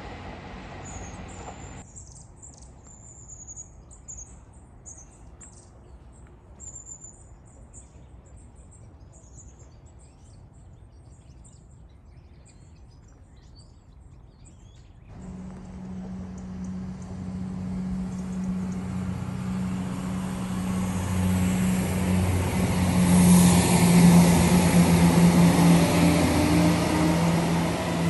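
Small birds chirping over a quiet background, then, from about halfway, a diesel multiple-unit passenger train approaching on the line below, its steady engine drone and wheel noise growing louder toward the end.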